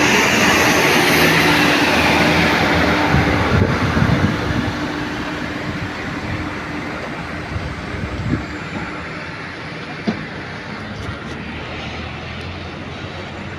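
Heavy truck's engine running loud as it passes close, then fading as it moves off, with a few short knocks partway through.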